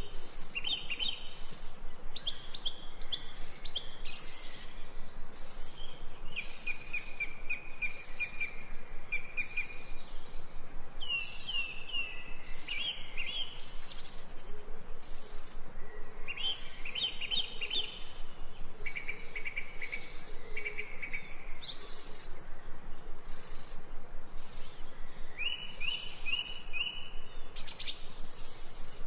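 Ambient recording of songbirds chirping and trilling in short repeated phrases, over a regular high pulsing sound.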